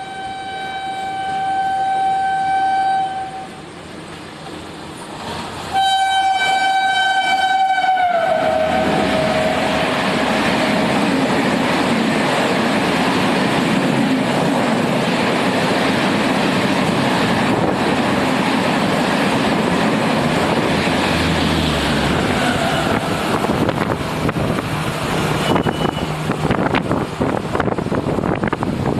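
Electric locomotive horn of the push-pull August Kranti Rajdhani Express sounding twice, a long blast then a shorter one that drops in pitch as the train passes at about 130 km/h. The rush and wheel noise of the coaches going by follows for about twenty seconds.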